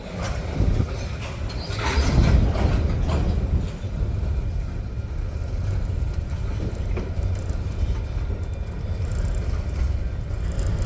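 Freight train rolling slowly past: a steady low rumble, with a cluster of knocks and clanks in the first few seconds.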